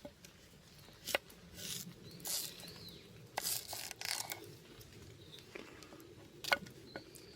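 Scattered handling noises while cooking: a sharp knock about a second in and another near the end, with short rustling or scraping bursts in between. A bird chirps faintly.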